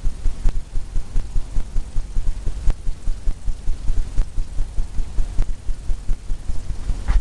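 Fan brush loaded with liquid white tapped repeatedly against a stretched canvas, a steady run of dull thumps about four a second.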